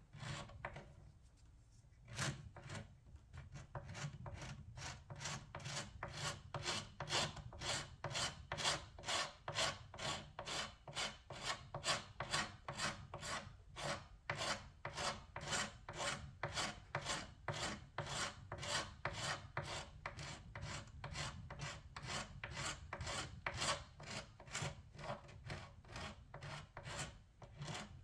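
Hand stripping of old paint and finish: rapid back-and-forth rubbing strokes at about three a second, starting after a short pause near the beginning and keeping a steady rhythm.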